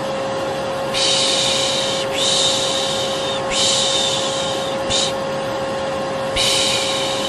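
Vacuum cleaner running steadily with a constant motor hum, while a person shushes over it: about four long 'shhh' sounds, each around a second, with short gaps between.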